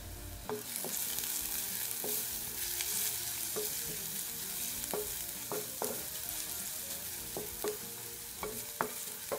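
Sliced onions, ginger-garlic and whole spices sizzling in hot oil in a clay pot, stirred with a wooden spoon that taps against the pot at irregular moments. The spices are being tempered in the oil.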